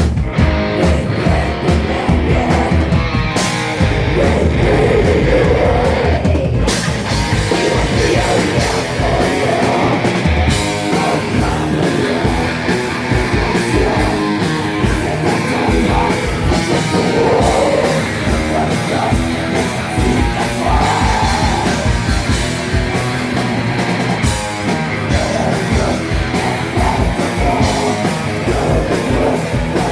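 Rock band playing loud and fast live, with guitars, drums and shouted singing.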